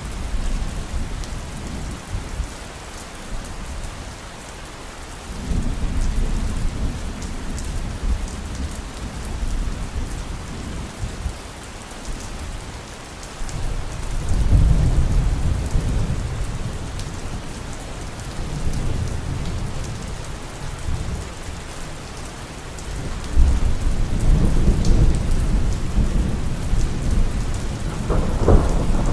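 Heavy rain falling steadily with low, rolling thunder that swells in several waves, the strongest about halfway through and again near the end. A sharper thunder crack comes just before the end.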